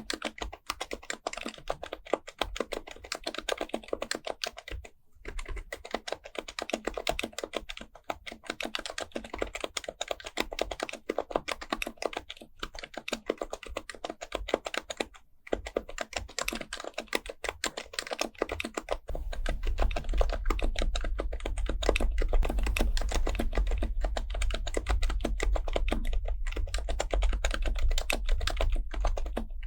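Continuous fast typing on an HHKB Pro Type-S keyboard's silenced Topre capacitive keys: a dense run of soft keystrokes with a couple of short pauses. About two-thirds of the way in, a steady low hum joins under the typing.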